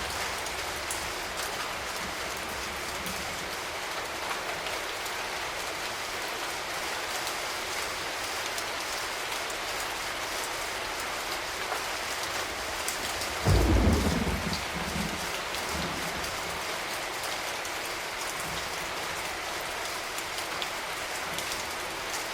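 Water tap running in a steady stream, splashing into the basin. A brief low thump stands out about thirteen seconds in.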